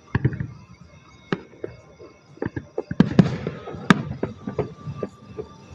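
Fireworks going off: a string of sharp separate bangs and crackles, coming thickest and loudest about three to four seconds in.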